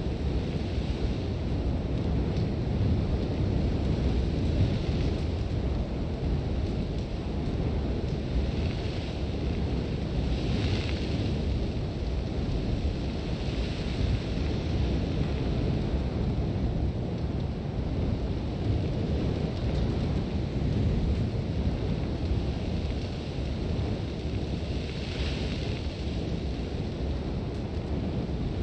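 Sandstorm wind blowing steadily with a deep rumble. A few hissing swells of blown sand rise and fade, the strongest about ten seconds in and again near twenty-five seconds.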